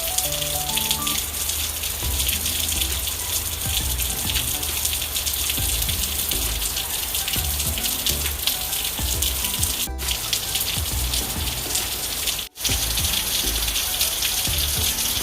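Steady rain falling, a continuous hiss, with soft background music underneath. The sound drops out for an instant about twelve seconds in.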